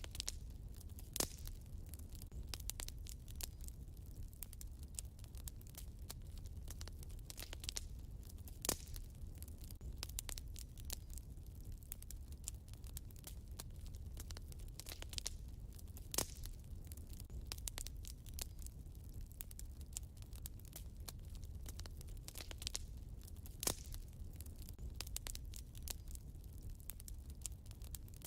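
Wood fire burning in a fireplace: a low steady rumble of flames with continuous fine crackling and occasional sharper pops, four of them louder than the rest.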